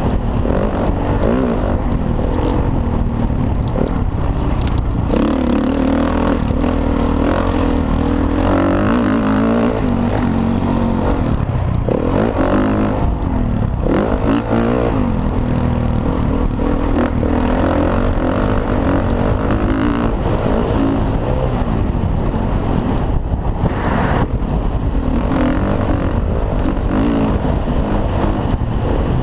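Motocross dirt bike engines revving up and down continuously, pitch rising and falling as the throttle opens and closes through the laps.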